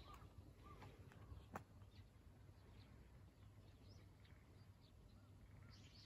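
Near silence outdoors: faint street background with a few faint, short bird chirps and a single soft click about one and a half seconds in.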